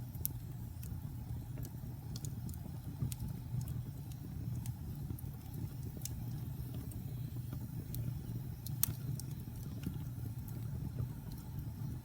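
Wood fire burning in a fireplace: a low steady rumble of flames with scattered crackles and pops from the burning logs, one sharper pop about nine seconds in.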